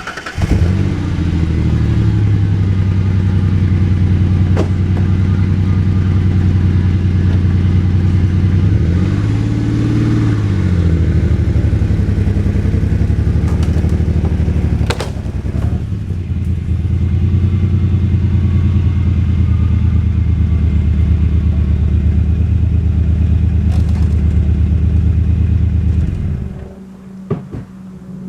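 A vehicle engine starts and runs loudly at steady speed. Its pitch briefly rises and falls about nine to eleven seconds in, it drops back for a moment about fifteen seconds in, and it shuts off a couple of seconds before the end.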